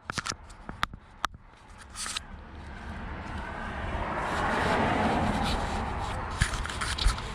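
A vehicle passing, its noise swelling to a peak about five seconds in and fading, with scattered sharp clicks and knocks at the start and near the end.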